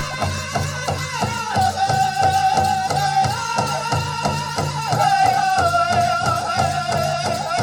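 Powwow drum group singing a chicken dance song: high, wavering voices over a fast, steady beat struck in unison on a large powwow drum.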